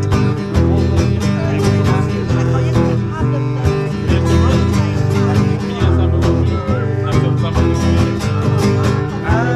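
Live blues music: acoustic guitar strummed to a steady beat over a strong bass line, with no singing.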